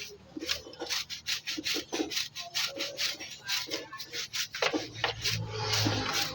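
Rapid scrubbing strokes, several a second, of something being rubbed by hand. A low hum comes up about five seconds in.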